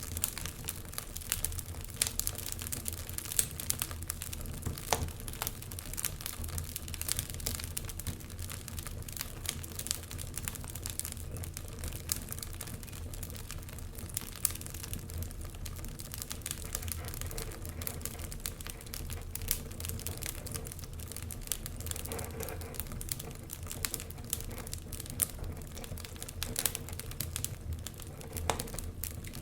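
Wood fire burning in a fireplace, logs crackling with irregular sharp pops and snaps over a low steady rumble of the flames.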